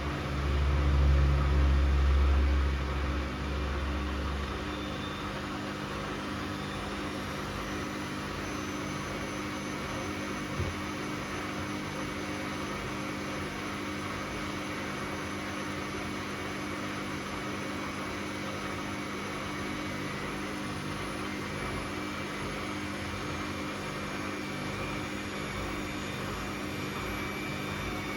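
Bosch Classixx 6 front-loading washing machine in its 600 rpm intermediate spin. A heavy low rumble for the first few seconds, then the motor's whine climbs and holds steady as the drum spins, with a single knock about ten seconds in.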